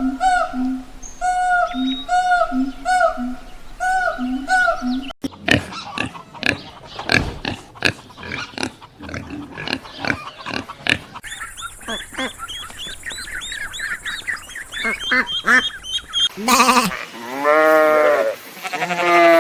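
A run of different farm animals calling, cut one after another. It starts with short pitched calls repeated about twice a second, then a stretch of rough grunting strokes, then fast high chirping. Loud drawn-out bleat-like calls come near the end.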